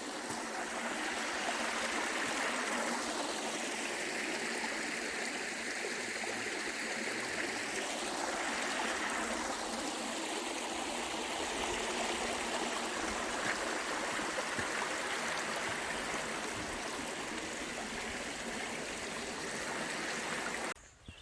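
Stream water flowing, a steady rush that stops abruptly near the end.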